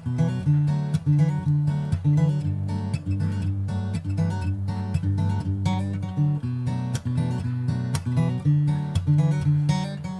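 Background music: an acoustic guitar plucking and strumming a steady rhythmic arrangement.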